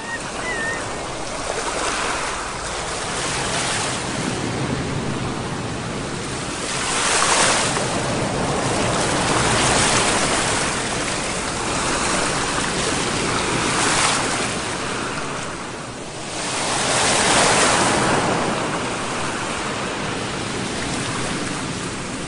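Sea waves surging and washing in, the rush swelling and falling back every few seconds, loudest about seven and seventeen seconds in.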